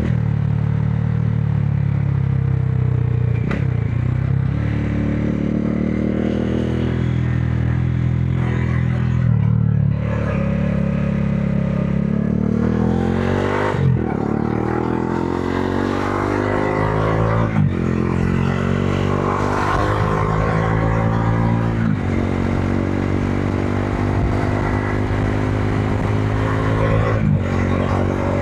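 Modenas Dominar 400's single-cylinder engine running under way. It runs fairly steady for the first several seconds, then pulls through the gears: the revs climb in each gear and drop sharply at each upshift, about four times in the second half.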